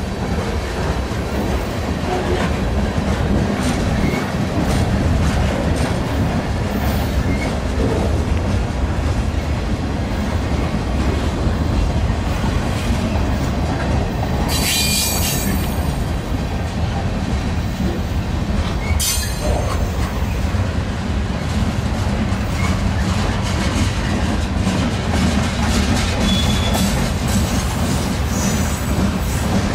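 Freight cars rolling past close by: a steady rumble and clatter of steel wheels on the rails. Two brief high squeals ring out about halfway through, the first lasting over a second.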